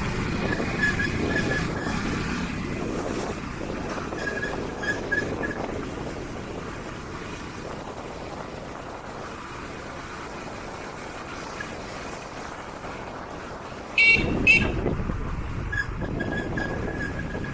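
Vehicle running along a road, with steady engine and wind noise, faint short high beeps now and then, and a loud two-part burst about fourteen seconds in.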